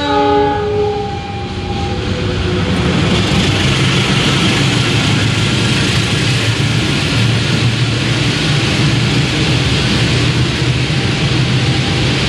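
A diesel-hauled passenger train passes close by. Its horn sounds briefly at the start, then the locomotive's low engine drone and the steady rumble of wheels on the rails carry on as the coaches go by.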